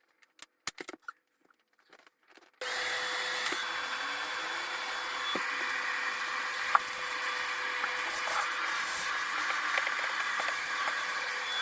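After a couple of near-silent seconds with a few faint clicks, a vacuum cleaner starts suddenly and runs steadily with a thin steady whine in its noise. One sharp knock comes midway, with light bumps as it is pushed around.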